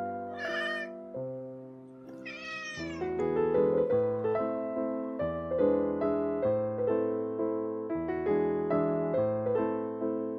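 Domestic cat meowing twice, once about half a second in and again between two and three seconds in, over gentle piano music.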